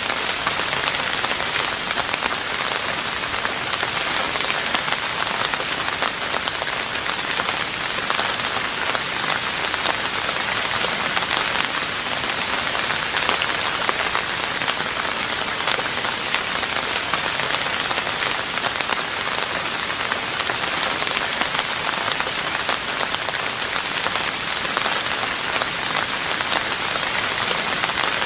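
Steady rain falling on a roof: a dense, even hiss of many small drops that goes on without pause or change.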